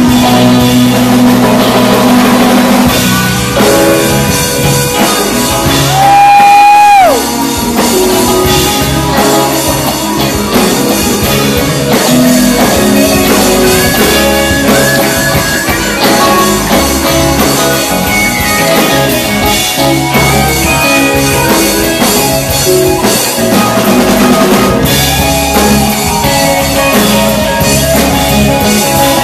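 Live band playing an instrumental passage with electric guitar, bass and drum kit. About six seconds in a loud held high note stands out for about a second, then drops in pitch as it ends.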